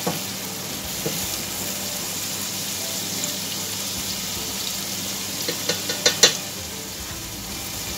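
Chopped onions and spices frying in oil in a pan, a steady sizzle as they are stirred. About six seconds in come a few sharp clicks of a utensil against the pan as a spoonful of ginger-garlic paste is added.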